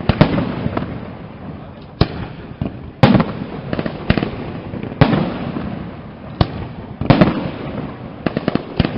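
Aerial fireworks display: shells bursting with loud bangs roughly once a second, some followed by quick crackling reports, each bang leaving a rumbling echo.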